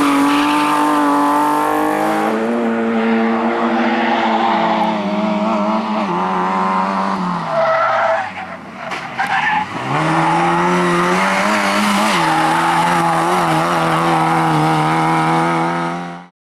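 Rally car engine held at high revs with tyres skidding. About eight seconds in the revs drop steeply and the sound quietens briefly, then the engine revs back up, and the sound cuts off abruptly near the end.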